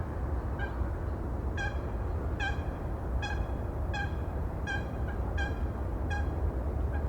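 A bird calling about ten times in a row: short pitched calls with a hard edge, evenly spaced about three-quarters of a second apart, over a steady low rumble.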